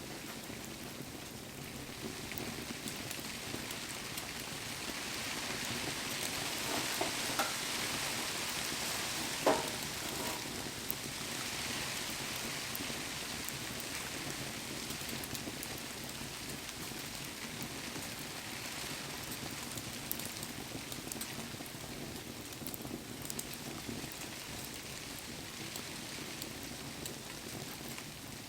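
Wood fire burning in steady rain: rain falling and a hiss like frying, which swells and then eases off. A few sharp crackling pops come about a third of the way in.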